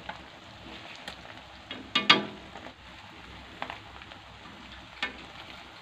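Tilapia fillets in beaten egg frying in oil in a pan over low heat: a steady soft sizzle, with a few knocks of chopsticks against the pan, the loudest about two seconds in.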